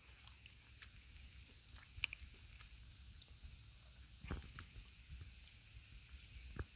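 Crickets chirping faintly and steadily in a regular pulsing rhythm, with a few faint clicks.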